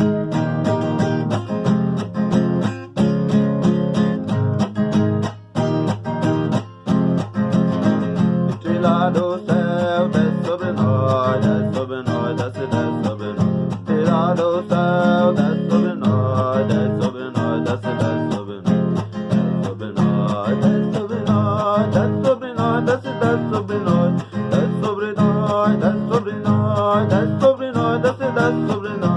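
A song played on a strummed acoustic guitar, with a sung melody coming in over it about eight seconds in.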